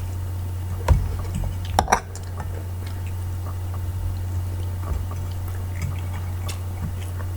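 A man chewing his breakfast, with two sharp clicks about one and two seconds in and faint scattered ticks, over a steady low hum.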